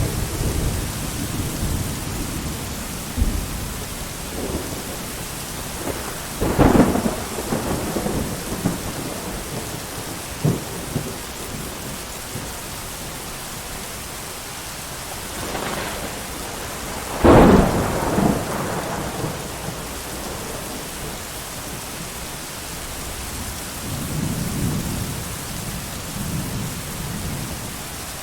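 Steady heavy rain with thunder: two loud thunderclaps, one about a quarter of the way in and one a little past halfway, each trailing off in rumbling, and lower rolling rumbles near the start and near the end.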